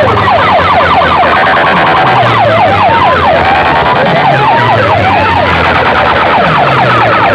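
Sound-system loudspeaker stacks blasting an electronic siren-like effect: rapid falling pitch sweeps repeated several times a second, with a few slower rising swoops in the middle, over a steady low drone.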